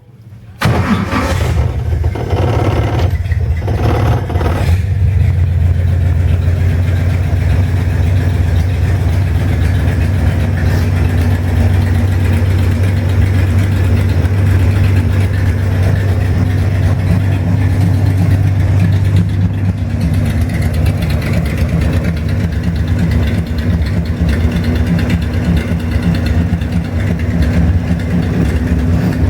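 Chevrolet 235 straight-six engine starting up for the first time after the build: it catches about half a second in, is revved briefly a few times, then settles into a steady idle.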